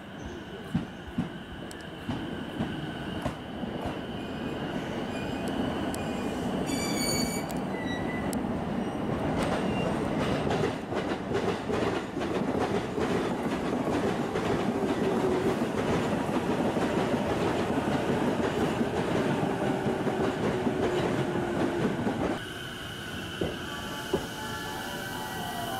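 JR East E233-series electric train arriving at a platform and braking, its wheels and running gear rumbling louder as it comes in, with a faint slowly falling whine. Near the end the sound drops abruptly to a quieter steady hum.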